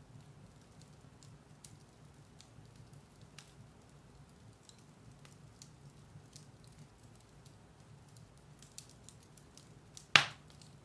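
Firewood burning in a fireplace: faint, scattered crackles over a low steady hum, then one loud sharp pop near the end.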